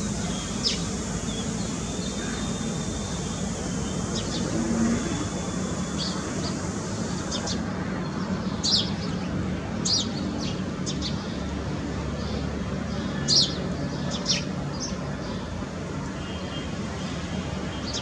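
Small birds chirping in short, sharp, high calls, scattered and more frequent in the second half, over a steady low background hum.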